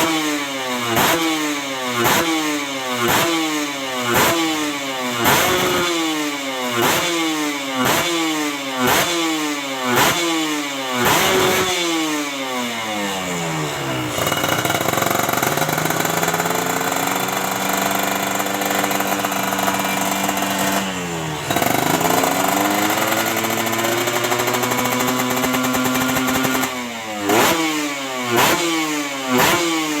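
Motorcycle fitted with a KNC Racing Team big-volume aftermarket exhaust, revved in quick throttle blips about once a second, each rising sharply and falling back to idle. Midway it is held at high revs for several seconds, dips briefly, is held high again, then the quick blips resume near the end.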